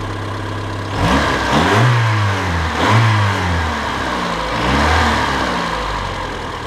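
Honda four-cylinder petrol engine idling, then revved several times, the pitch climbing and falling back with each rev before settling to idle near the end. It runs without unusual noises.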